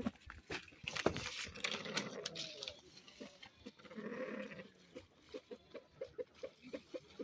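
Goat bleating, one pitched call about four seconds in, among scattered clicks and knocks, followed by a run of short regular ticks at about three a second.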